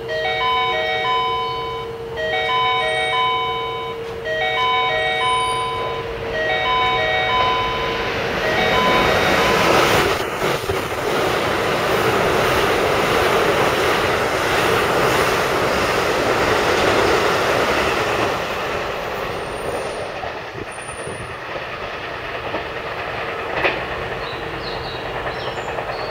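A repeating electronic chime sounds for the first several seconds, warning of an approaching train. Then a Keikyu train passes through the station at speed: a loud rush of wheel and rail noise builds about eight seconds in, holds for about ten seconds, and tapers off.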